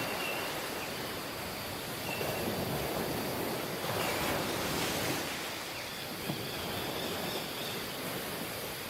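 Surf washing onto a tropical beach, a steady hiss that swells twice as waves come in, with a few faint short high-pitched chirps and one small click.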